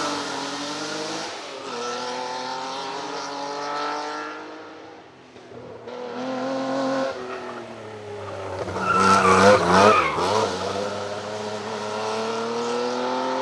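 Vintage racing car engine running hard, its pitch climbing and dropping back several times as it changes up through the gears. It is loudest about nine to ten seconds in.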